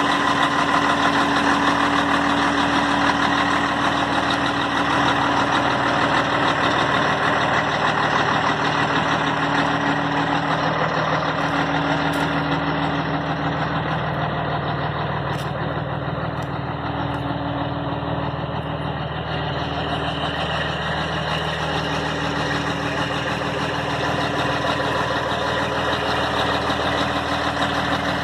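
Scania 113 truck's six-cylinder diesel engine running steadily, a little quieter in the middle stretch and picking up again near the end.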